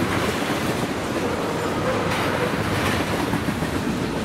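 Freight train cars, tank cars and a covered hopper, rolling past at close range: a steady wheel-on-rail rumble with clatter from the trucks.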